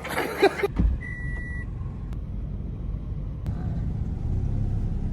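Steady low rumble of a car on the move, with a short single beep about a second in.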